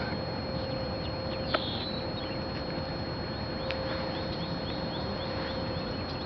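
Birds calling in short, high, downward-sweeping chirps over a steady hiss and a thin high whine, with a sharp click about one and a half seconds in.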